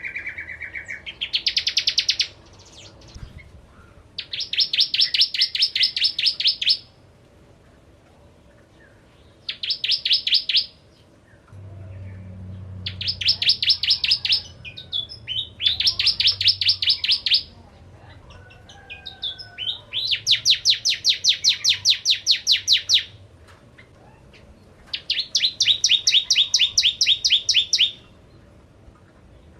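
Prenjak jawa (bar-winged prinia) singing: seven loud bursts of rapid, evenly repeated chirping notes, each burst lasting one to three seconds, with short pauses between them.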